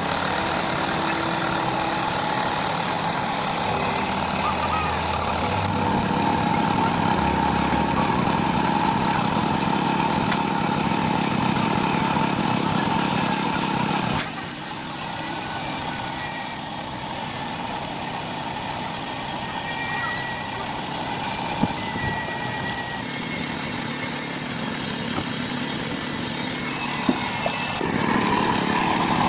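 Truck engine idling steadily, with workshop noise around it; the sound changes abruptly several times as between separate takes.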